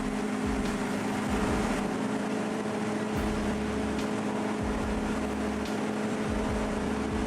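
Bandit 3590 whole tree chipper running steadily, a constant engine drone over broad mechanical noise.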